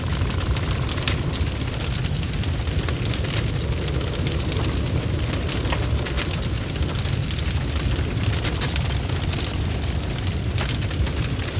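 Bonfire burning, with a steady low rumble of flames and irregular sharp crackles and pops of burning wood.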